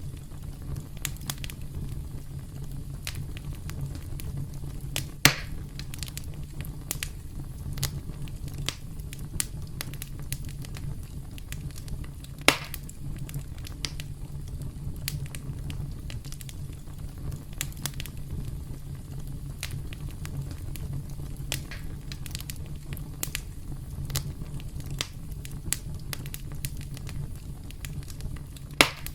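Campfire crackling: wood burning with a steady low rumble and frequent small snaps, plus three louder pops, about five seconds in, near the middle and near the end.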